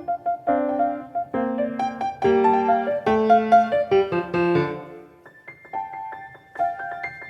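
Solo piano playing a piece of struck melody notes over chords, with a falling run of lower notes about four seconds in, then softer, higher notes near the end.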